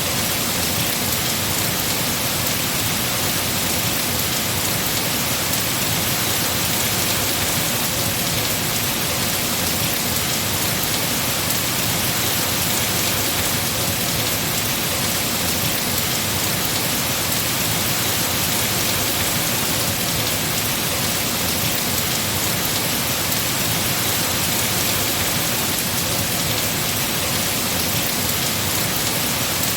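Heavy rain falling steadily on trees and foliage, an even unbroken hiss.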